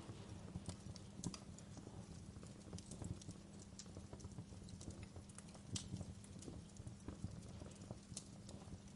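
Wood fire crackling, with irregular sharp pops at uneven intervals over a steady low rumble and a soft hiss of rain.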